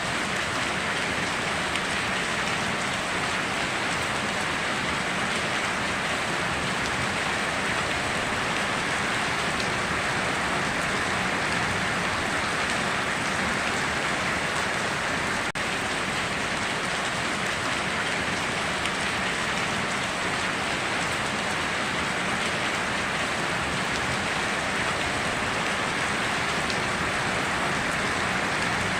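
Steady heavy rainfall, a dense even hiss of rain on foliage and surfaces that does not change.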